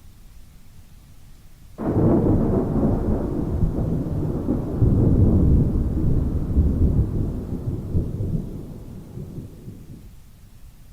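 A thunderclap: a sudden crack about two seconds in, then a long rolling rumble that fades away over some eight seconds, over a faint hiss of rain.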